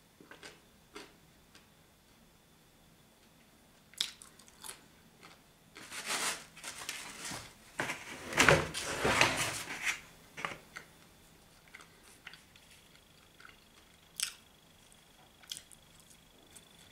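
Eating sounds of pizza: quiet chewing and crunching of the crust with scattered small clicks, and a louder stretch of rustling and crunching around the middle, as a new slice is handled and bitten.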